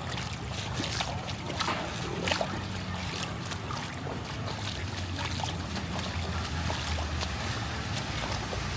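Floodwater in a street splashing and sloshing, with many short splashes over a low steady rumble.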